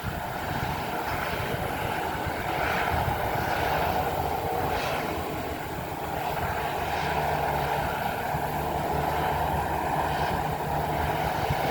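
Bulldozer's diesel engine running steadily, with a few faint crackles over the drone.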